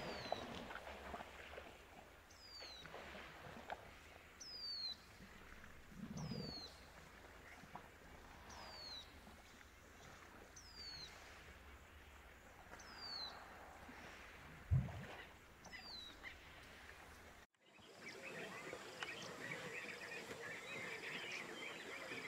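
A bird repeatedly calling a short, high whistle that falls in pitch, about once every two seconds, over faint outdoor ambience. A brief low thud comes about two-thirds of the way through.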